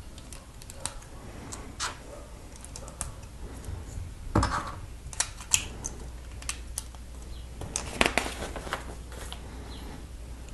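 Small hard-plastic Lego pieces clicking and tapping as they are handled and pressed together, irregularly, with a louder knock about four seconds in and a quick run of clicks around eight seconds.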